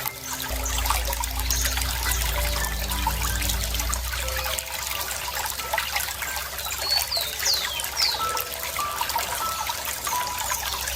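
Running water trickling steadily, with birds chirping over it, including a few quick falling chirps about seven to eight seconds in.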